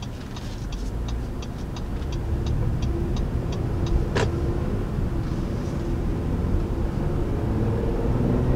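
The 2019 Honda Ridgeline's 3.5-liter V6 running under acceleration, heard from inside the cabin with a steady low road and engine rumble that grows louder toward the end. A light, rapid ticking, about four a second, runs for the first few seconds, and there is a single sharp click about four seconds in.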